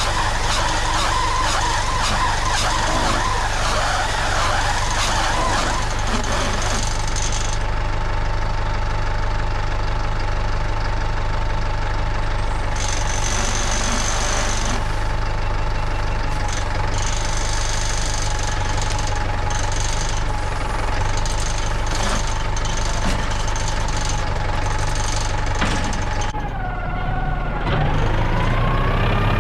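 Farm tractor's diesel engine running steadily at working speed, with a steady high whine from the machinery that wavers up and down near the end.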